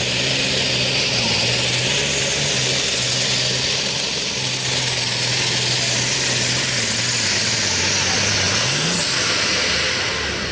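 A pulling vehicle's engine running hard at high throttle under load, with a dense roar and a high steady whistle on top. Near the end the engine note sags, then briefly rises, and the sound eases off.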